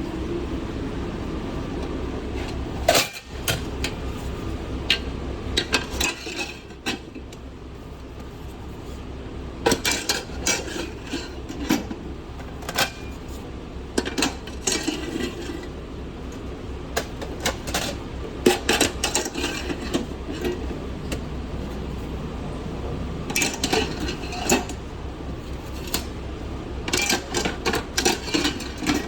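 Fast-food kitchen work: scattered clinks and knocks of pans and utensils being handled, over a steady low hum of kitchen equipment.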